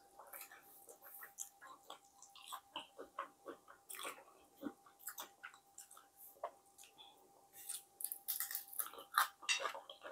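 Close-miked mouth sounds of someone chewing fried tilapia: irregular wet smacks and clicks, busiest near the end.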